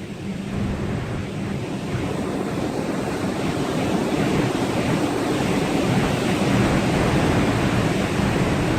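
Storm wind and rough sea rushing over the microphone, growing louder over the first few seconds, with a low steady hum underneath that fades out after about two seconds.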